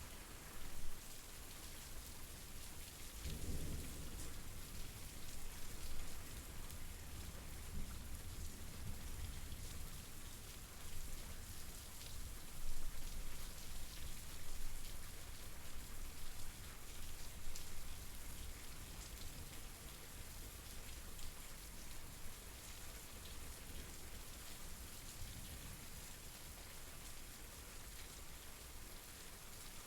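Steady rain falling, an even hiss of many drops. About three and a half seconds in, a low rumble of thunder swells under it and fades over several seconds.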